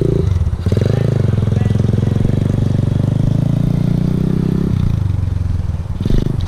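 Dirt bike engine running under throttle. It eases off briefly just under a second in, then picks up and holds steady, and drops back to a lower level near the end.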